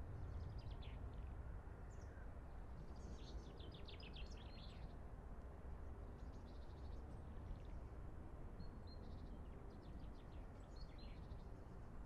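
Songbirds chirping in several short bursts of quick high notes, faint, over a steady low background rumble.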